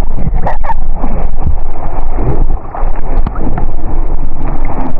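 Loud rattling crackle in the audio of a wet camera: water on the microphone gives a dense, scratchy noise full of small clicks over a low rumble.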